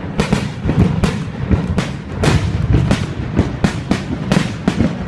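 Fireworks display: a rapid, irregular string of loud bangs and crackling reports, several a second, over a continuous low rumble of booms.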